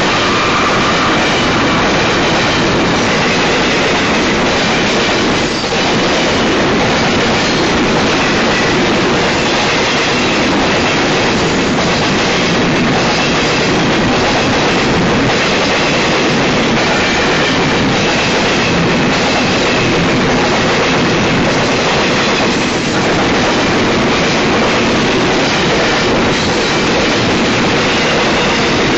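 Double-stack container train's well cars rolling past close by: a loud, steady rumble and clatter of steel wheels on the rails.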